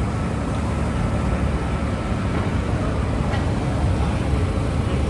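Busy city street noise: a steady low rumble of passing vehicles.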